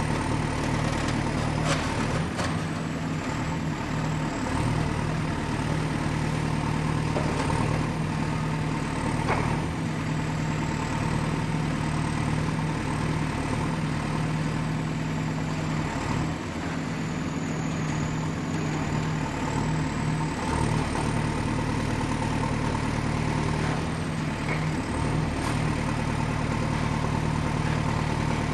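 Excavator's diesel engine running steadily under a strong low hum, with a faint high whine that wavers in pitch and a couple of short knocks.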